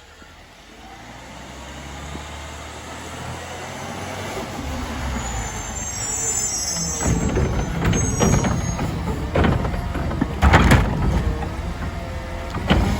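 CNG Autocar ACX garbage truck pulling up, its engine growing steadily louder, with a brief high brake squeal about six seconds in. A series of clanks and knocks follows.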